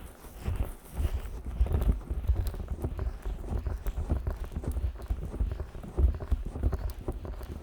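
Fingers working on the silicone ears of a 3Dio binaural microphone, slick with Vaseline: a fast, irregular run of soft, deep thumps and rubs, several a second, close up in the mic.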